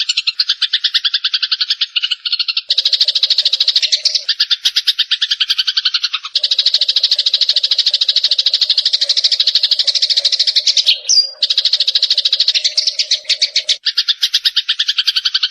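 Small songbirds chattering in a fast, almost unbroken run of harsh notes, about ten a second, with a few short breaks. This is a bird-tutoring recording that mixes fighting Eurasian tree sparrows with cililin birds.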